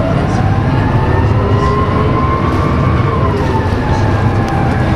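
Canal tour boat's engine running with a steady low hum, and over it a tone that slides slowly up and then back down over a few seconds.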